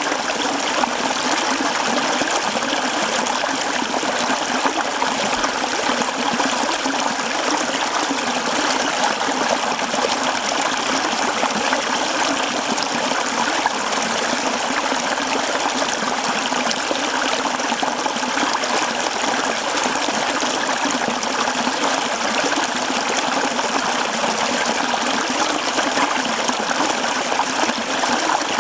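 Mountain stream running over rocks: a steady, even rush and babble of flowing water.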